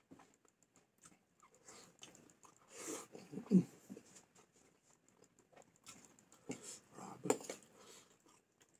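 A person eating a spicy coconut-milk dish with rice: irregular chewing and utensil clicks against a plate. A short, louder low sound comes about three and a half seconds in, with another cluster of louder clicks around seven seconds in.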